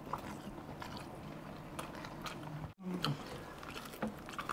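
Faint chewing and lip-smacking of people eating chicken and fried rice by hand, with scattered small wet clicks. The sound cuts out briefly a little past halfway.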